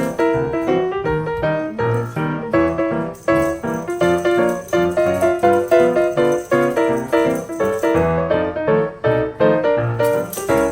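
Background piano music, a quick run of short notes at a steady pace.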